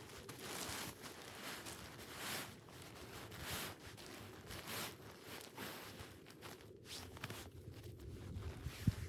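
Footsteps crunching in snow, slow and irregular, about one step a second.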